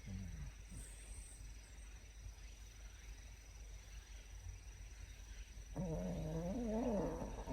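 A dog giving a low, wavering whine about six seconds in, lasting about two seconds, over a faint steady low hum.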